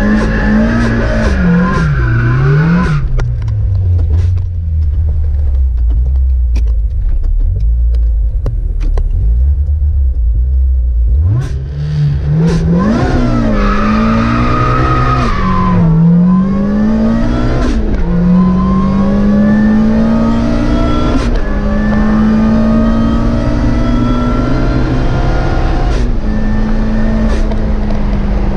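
Supercharged Toyota 4A-GZE 16-valve four-cylinder with an SC14 Roots blower, in an AE86 Corolla on a drag run. It is revved up and down, then settles to a steady low note for several seconds. About 11 seconds in it launches, and the engine note climbs through the gears, dropping suddenly in pitch at each of several upshifts.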